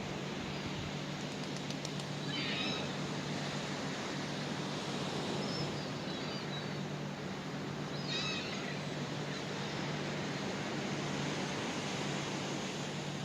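Steady rush of wind and sea surf, with short bird chirps twice, about two and a half and eight seconds in.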